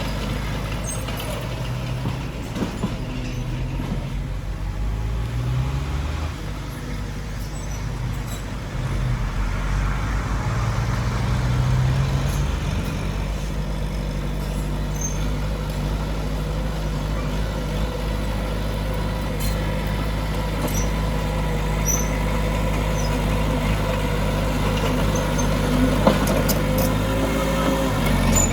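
Heavy diesel engine of earthmoving machinery running, its note rising and falling a few times in the first half before settling, with a brief knock near the end.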